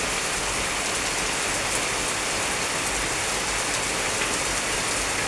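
Heavy rain falling in big drops, a steady, even downpour.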